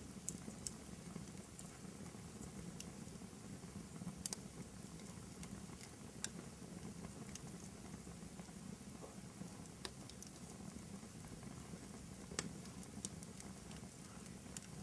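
Wood fire burning in a fireplace: a low steady rumble of flames with irregular crackles and pops, the sharpest about twelve seconds in.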